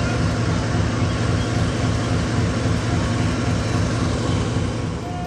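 A vehicle engine running steadily: a low, even hum under a constant wash of noise.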